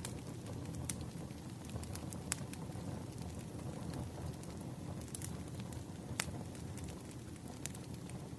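Firewood burning: a steady low rumble of flames, with sharp crackling pops every second or two.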